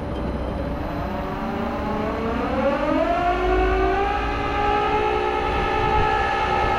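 Rollback tow truck's hydraulic winch pulling a car up the bed: a pitched mechanical whine that rises in pitch about two to three seconds in, then holds steady.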